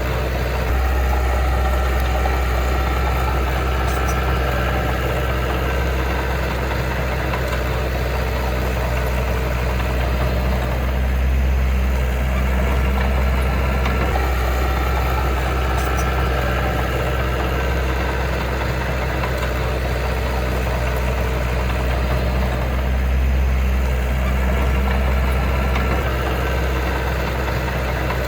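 Heavy diesel engine of earthmoving equipment running steadily with a deep rumble, swelling a little twice.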